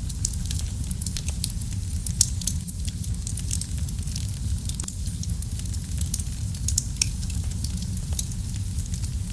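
Wood fire burning in a fireplace: a steady low rumble of the flames with frequent irregular crackles and pops, a few of them louder, the loudest about two seconds in.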